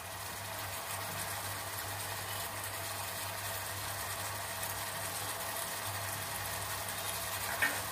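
Sliced onions, tomatoes and dry red chillies frying in oil and ghee in a pot: a steady, even sizzle with fine crackles, over a low steady hum.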